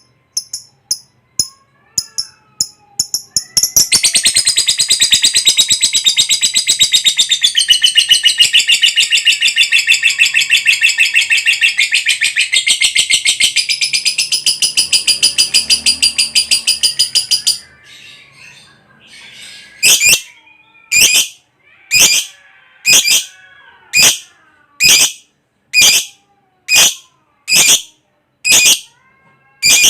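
Lovebird calling: rapid high chirps for the first few seconds, then a long, fast chattering trill, the 'ngekek panjang' (long ngekek), lasting about fourteen seconds and cutting off suddenly. After a short lull come loud single sharp chirps about once a second.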